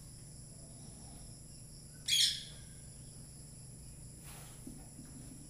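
A single short bird chirp about two seconds in, over a steady faint high-pitched whine and a low hum.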